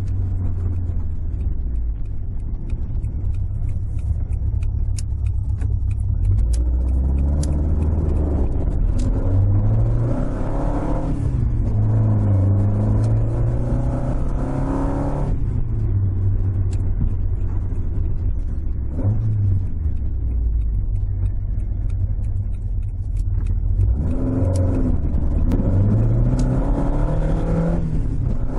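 Toyota AE86's 4A-G twin-cam four-cylinder engine, heard from inside the cabin while the car is driven. The revs climb and drop several times as it pulls through the gears: a climb about a third of the way in, a sudden drop near the middle, a steadier low stretch, then another climb near the end.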